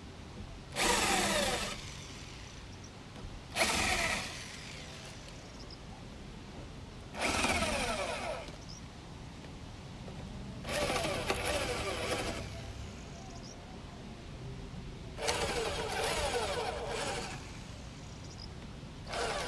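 Power drill run in six short bursts of about a second each, a few seconds apart, its pitch sliding within each burst.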